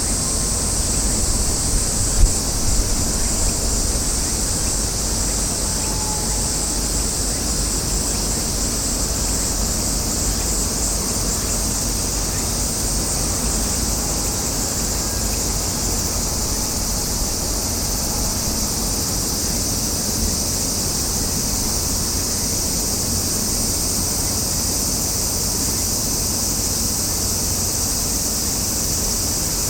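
Steady high-pitched chorus of cicadas buzzing over a low, steady rumble, with one short knock about two seconds in.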